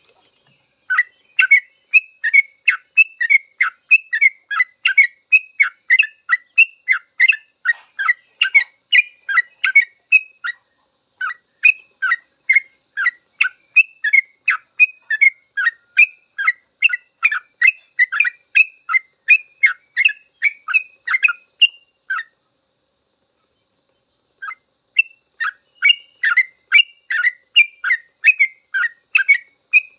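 Yellow-vented bulbul (trucukan) singing a long, fast run of short chirping notes at about three a second, with a brief break about a third of the way in and a silence of about three seconds past two-thirds before the run resumes.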